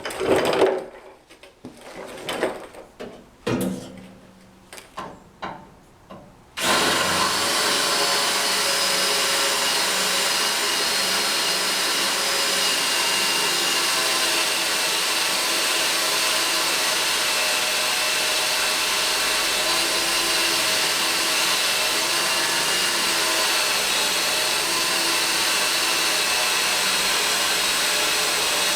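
A few scattered knocks and clanks, then about six seconds in a power drill starts and runs steadily under load, its hardened cutting bit grinding into a riveted steel truck frame to remove a rivet.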